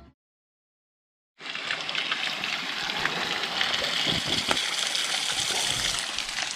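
Mountain spring water gushing and splashing steadily. It starts after about a second and a half of silence.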